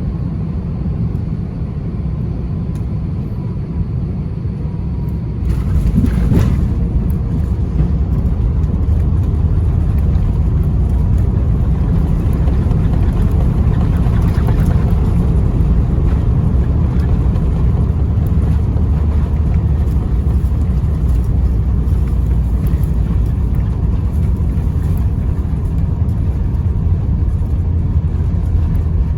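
Airbus A350-900 cabin noise during landing: a steady low rumble. About six seconds in it jumps louder with a single thud, the touchdown, then stays loud through the rollout.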